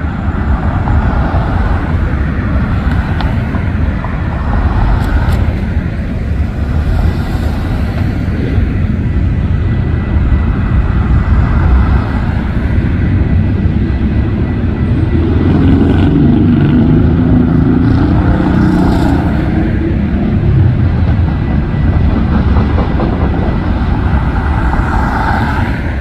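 A train running past at close range: a loud, steady rumble that swells somewhat about two-thirds of the way through.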